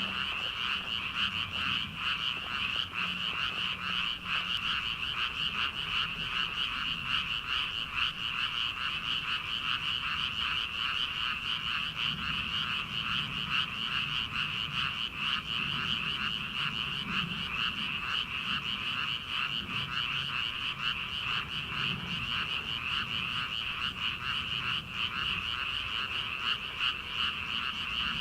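A dense chorus of many frogs calling together from a rice paddy, a continuous rapid pulsing croak with no break.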